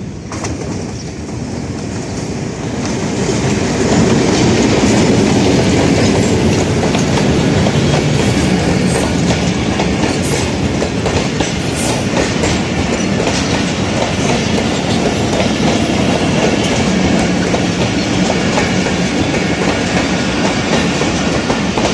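Pakistan Railways passenger train, hauled by a diesel locomotive, rolling past close by, its coach wheels running over the rails. It grows louder over the first few seconds, then holds steady as the coaches go by.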